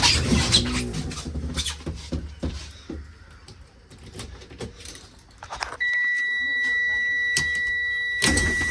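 School bus dashboard warning buzzer: one steady high-pitched beep that starts about six seconds in and holds, typical of the key being switched on. Before it, a low rumble and a few knocks.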